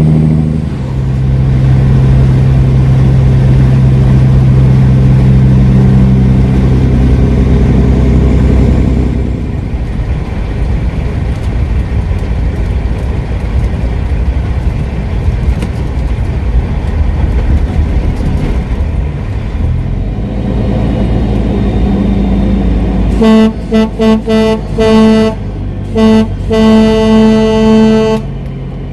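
Kenworth W900L semi truck's diesel engine running on the road, then a horn sounding near the end: a string of short blasts followed by a longer one of about two seconds.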